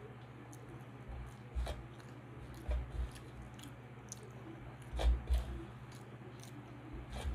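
Close-up chewing and mouth sounds of a person eating rice with dal and vegetables by hand, with a few short wet clicks and smacks, the loudest about five seconds in.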